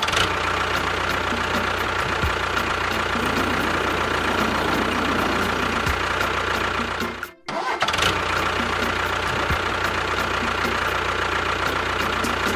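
Steady motor or engine running sound that cuts out abruptly about seven seconds in and starts again straight away.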